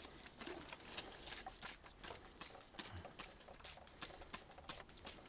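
Hand trigger sprayer squirting paraffin onto a motorcycle chain and sprocket in quick short squirts, about three a second.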